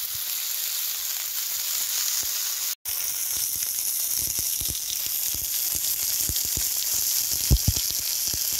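Burgers frying in a pan over a campfire: a steady sizzle with scattered small pops. The sound drops out for an instant about three seconds in, and two louder pops come near the end.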